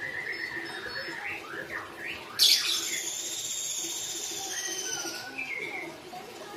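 Murai batu (white-rumped shama) singing: first a run of warbled notes, then about two and a half seconds in a loud burst opens a long high trill of nearly three seconds, followed by a few scattered notes. It is a bird still learning its song.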